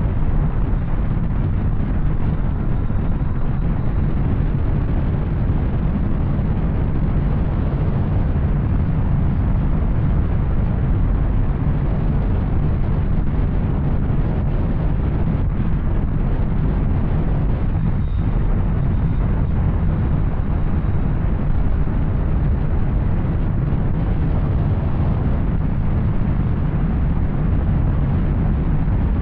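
Yamaha Tracer 900's three-cylinder engine running through an Arrow aftermarket exhaust while riding, a steady deep rumble with no clear changes in revs.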